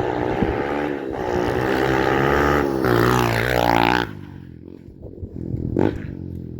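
Honda CRF100 dirt bike's single-cylinder four-stroke engine running, revved up and down about three seconds in, then dropping away sharply about four seconds in.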